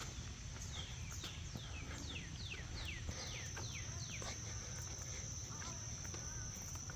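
A songbird singing a quick series of about nine downslurred whistles, each sliding from high to lower, over a steady high-pitched insect drone and low outdoor rumble.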